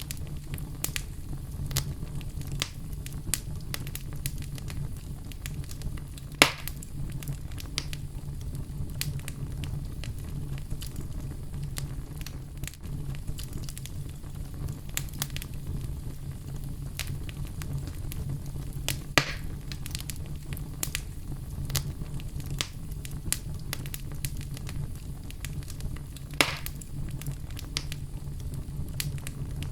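Oak logs burning in a fireplace: a steady low rumble of flame with constant small crackles and three louder pops, about six, nineteen and twenty-six seconds in.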